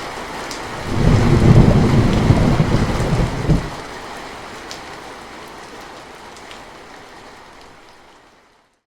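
Steady rain falling, with a thunder rumble that starts about a second in, lasts a couple of seconds and is the loudest sound. The rain then fades out gradually to silence near the end.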